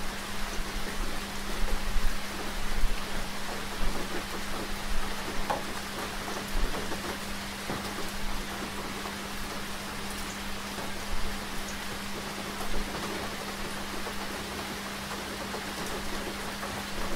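Steady rain falling, with scattered distinct drops and a few louder swells in the first few seconds. A steady low hum runs underneath.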